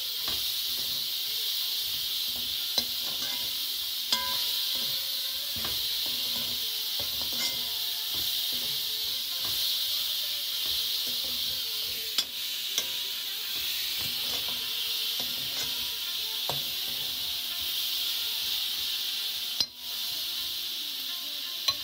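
Chicken pieces and chopped onion sizzling in hot oil in a wok while being browned, with a steady hiss. A metal spoon stirs them, clinking and scraping against the wok every few seconds.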